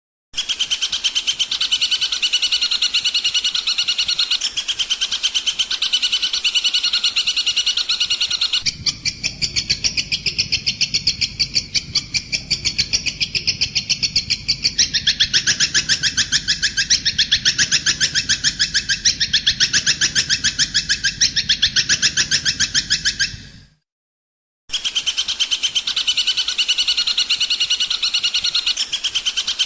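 Recorded songbird chirping played as a tutor track for a long-tailed shrike to learn from: a fast, even run of high chirps. About a third of the way in it switches to a different rapid song with a low hum underneath, cuts out briefly near the end, then the first chirping starts again.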